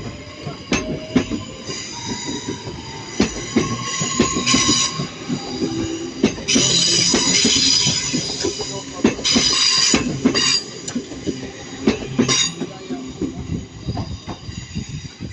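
A pair of Class 323 electric multiple units moving slowly over pointwork, wheels clicking rapidly over rail joints and crossings. Several spells of high-pitched, multi-tone wheel squeal break in, the longest about two seconds, typical of flanges grinding on tight curves.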